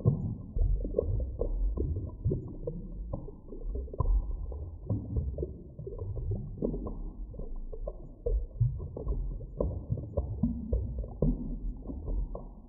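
Underwater ambience: a deep, muffled rumble with frequent irregular soft knocks and pops, nothing above a low, dull pitch.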